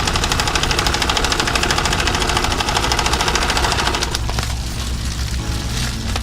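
Domestic sewing machine running at speed, its needle stitching in a fast, even rhythm that stops about four seconds in.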